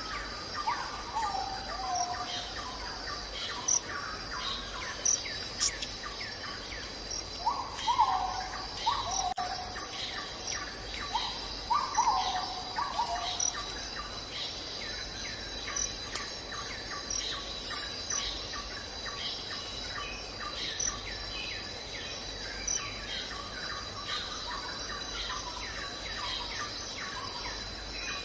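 Insects shrilling steadily in a high tone, with a bird calling in short series of falling notes three times: at the start, about 8 seconds in and about 12 seconds in. Many small clicks scattered throughout.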